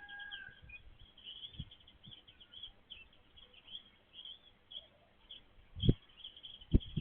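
Backyard songbirds chirping: a steady, dense chatter of short, high chirps from several birds, with a couple of low thumps near the end.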